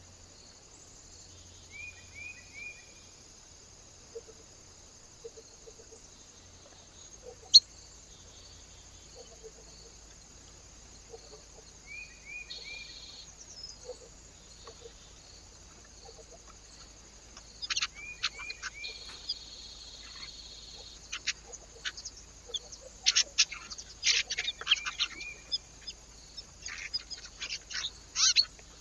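Small birds calling at a feeder: short falling notes in quick threes every several seconds, then a busy stretch of sharp ticks and chirps in the second half. One loud click stands out near the first quarter.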